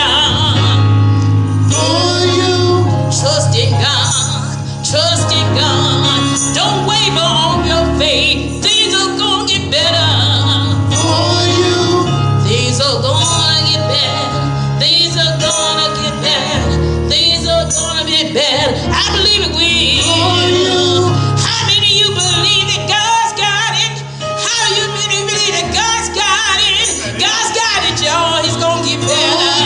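Gospel song sung with instrumental accompaniment, voices wavering over sustained low notes.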